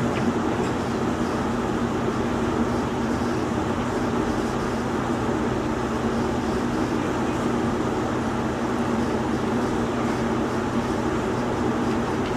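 Steady mechanical drone with a low, even hum and no change in level.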